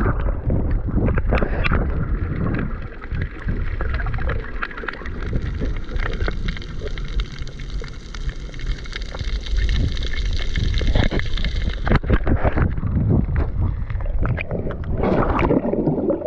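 Muffled water noise with a heavy low rumble, gurgling and crackling bubbles, as heard through a camera microphone held underwater while snorkelling.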